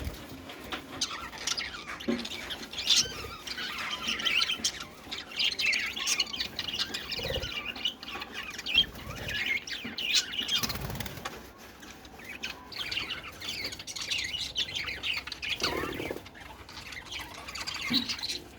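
Many small birds chirping and squawking over one another, with brief wing flutters and clicks.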